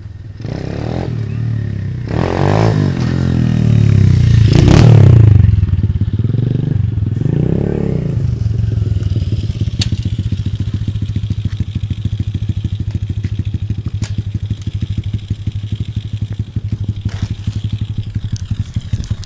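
SSR 125 pit bike's four-stroke single engine revving in several rising and falling bursts, loudest about five seconds in, then settling to a steady idle for the rest.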